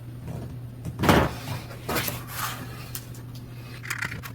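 Metal wrenches clinking and knocking against the bike's axle nuts as the nuts are loosened, a few separate knocks, the loudest about a second in.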